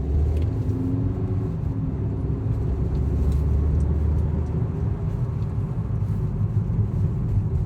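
Skoda Yeti 1.8 CDAB petrol engine car on the move from cold in frost: a steady low rumble of engine and road, with faint steady tones in the first couple of seconds.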